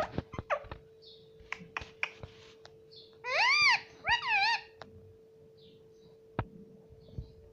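Indian ringneck parrot giving two loud calls a few seconds in: one arching up and down, then a shorter wavering one. Scattered small clicks and a faint steady hum are around them.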